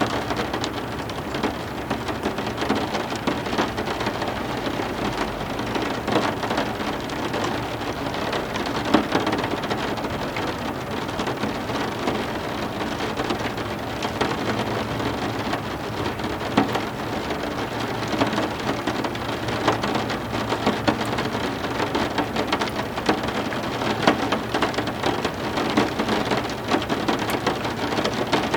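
Heavy rain falling steadily, with a dense patter of drops striking hard surfaces.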